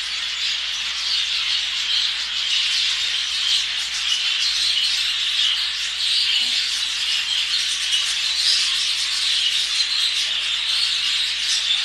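A flock of exhibition budgerigars chattering continuously, a dense mass of many quick high chirps.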